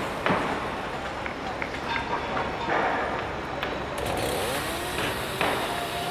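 Construction-site machinery noise: a steady low mechanical rumble with scattered metallic knocks and clanks, and brief squealing tones near the end.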